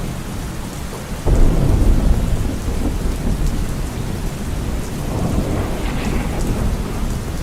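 Steady rain with thunder: a sudden loud low rumble breaks in about a second in and rolls on, swelling again near the end.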